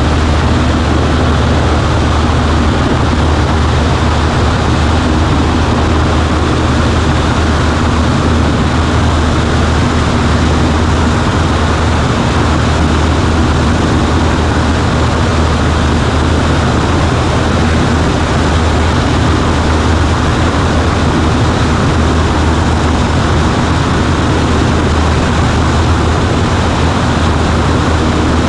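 Cessna 140A's piston engine and propeller running steadily at constant power, a loud unchanging drone with a strong low hum, heard from inside the cabin.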